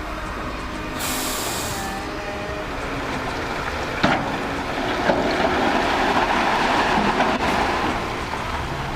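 Vehicle noise: a continuous rumble, with a brief hiss about a second in, a sharp click about four seconds in, and a louder stretch after that.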